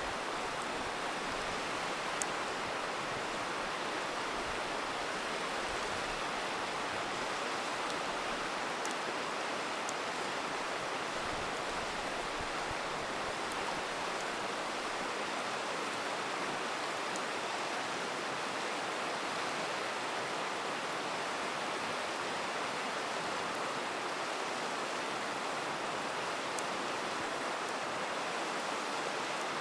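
Steady rushing of a river, with a few sharp pops from a crackling campfire scattered through it.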